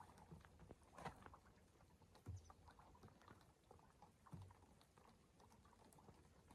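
Near silence with faint scattered clicks and a few soft low thumps.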